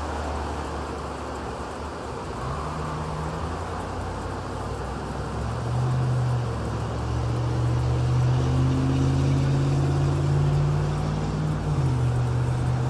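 A pickup truck's engine running through a loud aftermarket exhaust. The drone steps up in pitch a couple of times, as if under throttle, holds, and drops back near the end.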